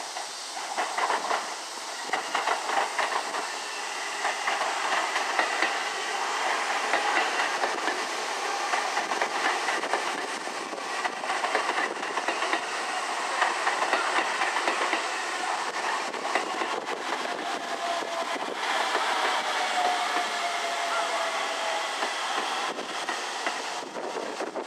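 Seibu 30000-series electric train rolling slowly into a station over the points. Its wheels clatter over the rail joints and turnouts, and a whine falls in pitch over several seconds near the end as it slows.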